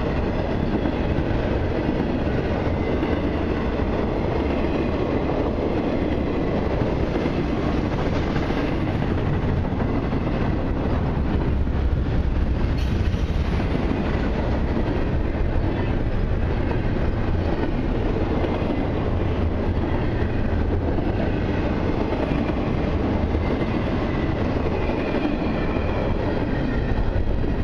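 Long CN intermodal freight train's cars rolling past at a steady speed: a continuous rumble of wheels on rail, with faint high tones from the wheels.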